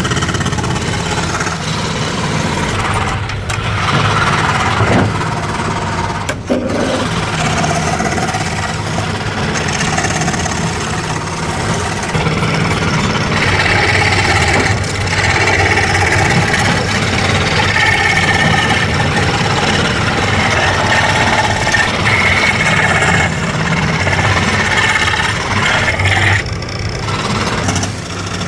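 Woodworking machinery running steadily: a constant low motor hum, joined about halfway through by a higher whine that shifts in pitch.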